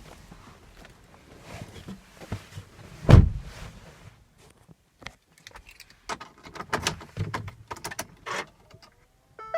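Handling noises around a Ford Explorer's cabin: scattered clicks, knocks and key jangles, with one loud low thump about three seconds in. Just before the end an electronic start-up chime begins as the car's electrics come on.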